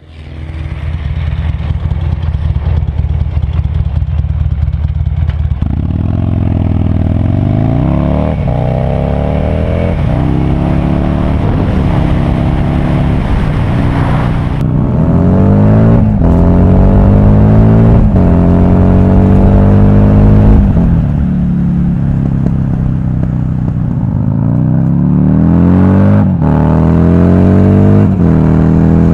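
Buell XB12R Firebolt's 1203 cc air-cooled V-twin heard from a helmet camera. It runs steadily at low revs for about five seconds, then accelerates hard through several gears, the pitch climbing and dropping back at each upshift.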